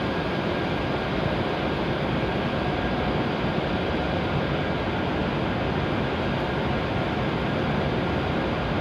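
E7-series Shinkansen standing at the platform with its onboard equipment running: a steady, even noise with a few faint steady tones in it.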